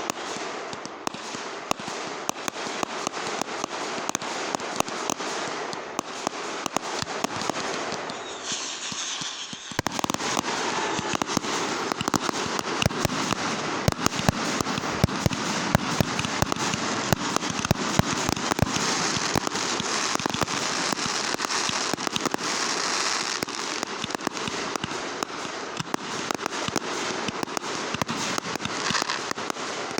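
Fireworks going off in a dense, continuous barrage of rapid cracks and pops. There is a brief thinning just before ten seconds in, then heavier bangs.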